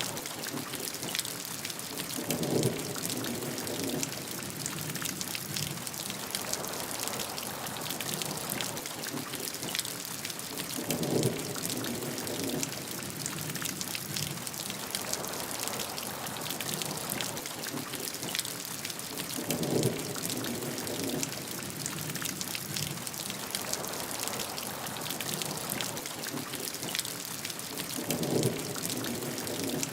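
Steady rain falling, an even hiss, with a short louder, lower burst four times, about every eight and a half seconds.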